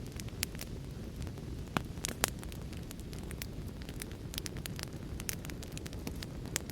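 Wood fire in a fireplace crackling, with irregular sharp pops, several a second near the end, over a steady low rumbling hiss.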